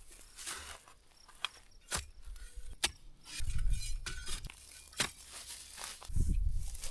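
Gusts of wind buffeting the microphone in two low rumbling bursts, with a few sharp clicks or snaps in between.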